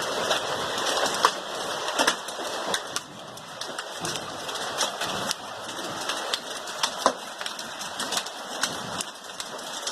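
Hailstorm: large hailstones striking hard surfaces in sharp, irregular clicks and knocks over the steady hiss of heavy rain.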